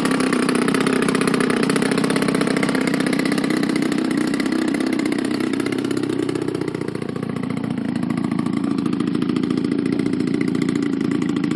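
DLE 30 single-cylinder two-stroke gas engine of a P-51 model plane, breathing through a Keleo exhaust, running steadily; its sound dips briefly about seven seconds in, then picks up again.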